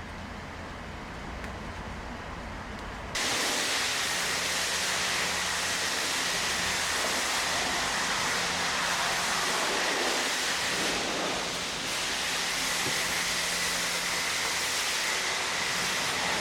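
A low rumble, then about three seconds in a high-pressure jet at a self-service car wash switches on suddenly: a loud, steady hiss with a faint constant whine underneath.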